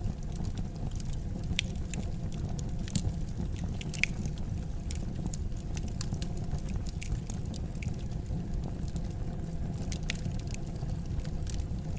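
Fire burning in a fireplace: irregular crackles and sharp pops over a steady low rumble of the flames.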